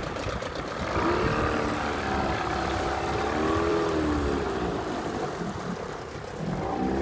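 Johnson 25 outboard motor running with the boat under way, its pitch wavering up and down.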